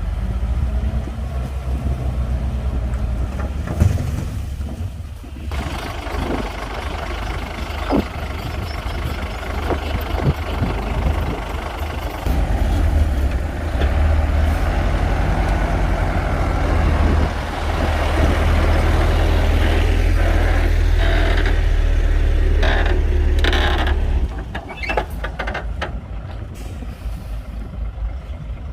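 Komatsu D58P bulldozer's diesel engine running hard as it pushes dirt, with a rough clattering noise over the engine. It grows louder about halfway through and holds, then eases off near the end, where a few sharp clanks sound.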